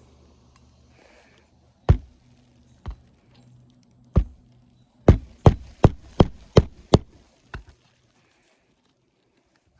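Hammer strikes on an asphalt shingle roof, typical of nailing during a shingle repair: three single blows, then a quick run of six, then one lighter last tap.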